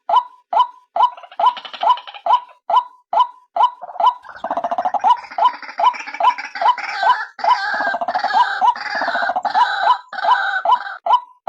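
White-breasted waterhen calls, billed as the female's lure call: a steady run of short hooked notes, about two to three a second. About four seconds in, a louder gurgling, chattering call joins them and stops shortly before the end.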